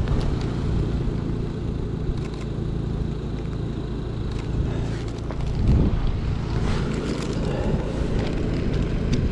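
A car engine idling steadily, with a brief louder swell a little after halfway.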